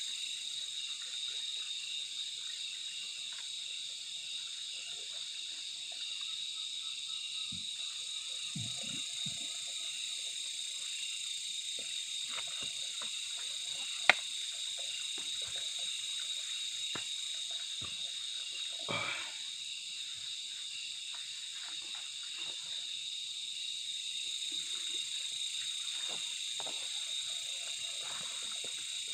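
Steady, high-pitched chorus of insects, unbroken throughout, with scattered soft knocks and clicks and one sharp click about halfway through.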